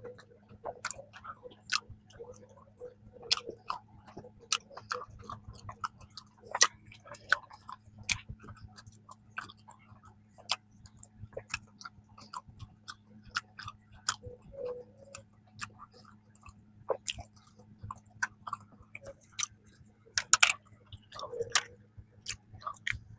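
Close-up mouth sounds of someone chewing a soft peanut cream bun: irregular small clicks and smacks throughout, over a faint steady low hum.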